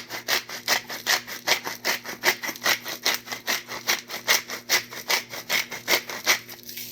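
Hand-twisted pepper mill grinding black pepper: a fast, even rasping, about five grinding strokes a second, that stops just before the end.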